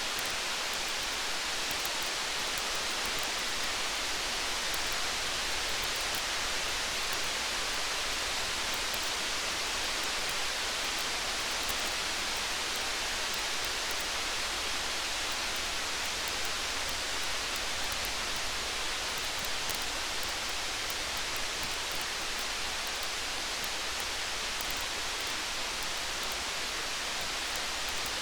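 Steady rain with faint, scattered high crackles from a campfire.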